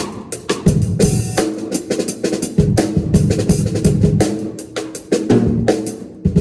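Drum kit played during a sound check: quick hits on kick drum and snare, with a cymbal crash about a second in.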